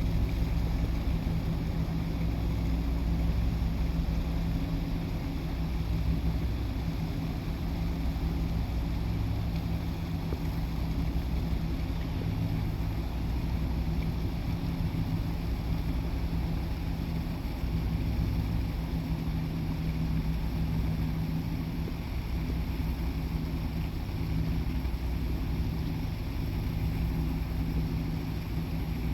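Ferry's engines running with a steady low drone and hum, over an even hiss of wind and water.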